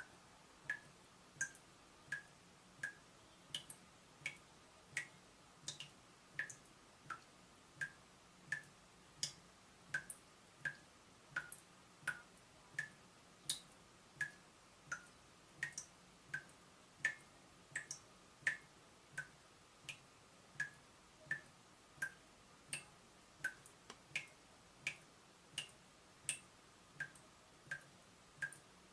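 Water dripping from a leaking tap: a steady run of single drops, about one every 0.7 seconds, each a short plink.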